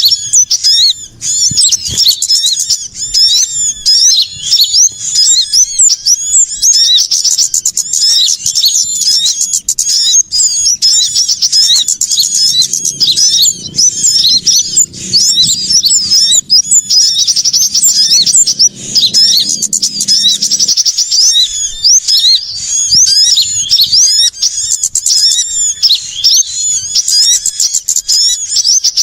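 Dense, noisy chorus of many small songbirds chirping and trilling at once, calls overlapping with no pauses: a bird-lure recording of agitated small birds. A faint low hum runs under it from about a third of the way in and cuts off suddenly past the middle.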